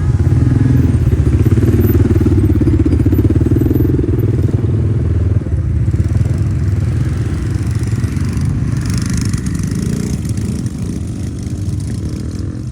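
Small minibike engine running with a fast, even firing pulse. It is loudest for the first few seconds and slowly fades after about five seconds.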